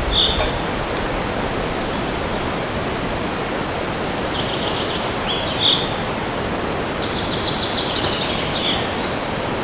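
Steady wind noise in a forest, with a small songbird singing: a short call at the start, then twice a rapid trill ending in a louder note, about five and eight seconds in.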